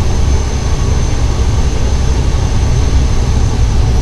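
Cessna 208 Caravan's PT6A turboprop engine and propeller running steadily: a heavy low drone with a thin, high steady whine on top.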